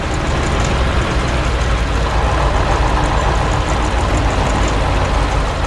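Tractor engines running steadily, a low rumble with no change in pitch.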